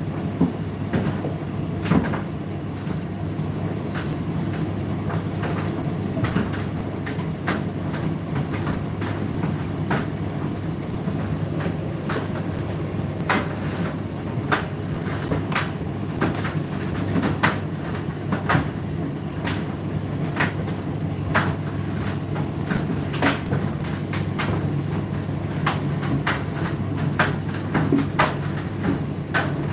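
Indesit IDC8T3 condenser tumble dryer running: a steady motor and drum hum with irregular clicks and knocks as the load tumbles in the drum.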